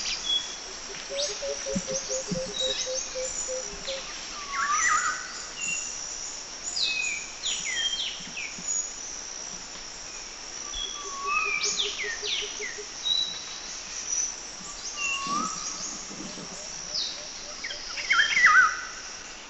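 Several birds calling with short, sharply down-slurred whistles over a steady high insect drone, with a low rapid run of notes heard twice.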